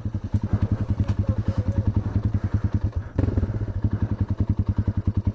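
Dirt bike engine running at low speed with a steady, rapid putting beat. There is a sharp knock about three seconds in, after which it runs a little louder.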